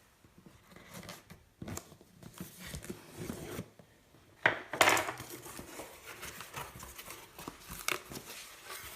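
Packaging being opened and handled: paper and plastic tearing and crinkling in scattered rustles, the loudest a short rustle about four and a half seconds in.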